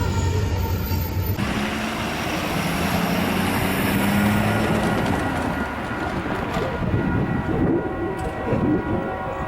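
A diesel locomotive's horn chord cuts off suddenly about a second in, followed by the steady running noise of a passing train, with a low engine hum and wheel noise on the rails.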